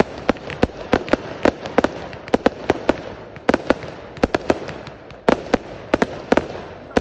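Fireworks going off in rapid, irregular bangs, several a second, with crackling between them.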